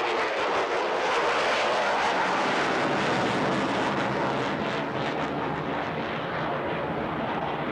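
Airplane flying past, its engine noise a loud rush that swells over the first second or two and then slowly fades.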